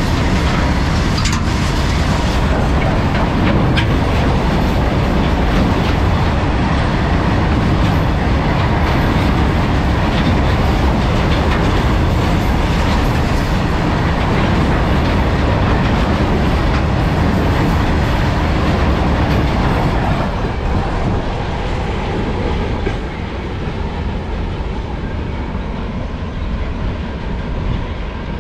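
Freight train of open-top BOXNHL wagons passing close by at high speed, a steady loud rush of wheels on rail. It drops away in the last several seconds as the train moves off.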